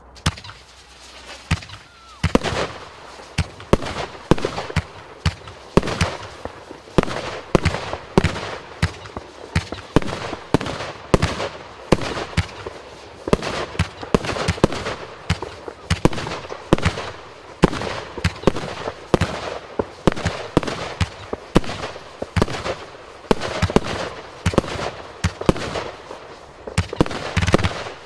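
Vivid Pyrotechnics Snakebite, a 36-shot firework cake with 30mm tubes, firing in a continuous sequence: sharp bangs about one to two a second, over a steady noisy background from the lifts and bursts.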